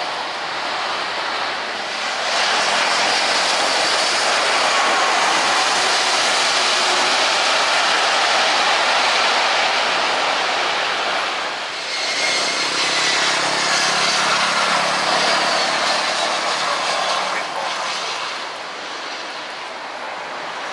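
Jet airliner passing close on landing: a loud rushing jet noise with a high whine that slides down in pitch as it goes by, dipping briefly about twelve seconds in and fading near the end.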